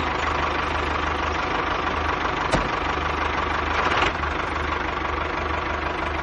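An engine idling steadily, with an even low chugging knock.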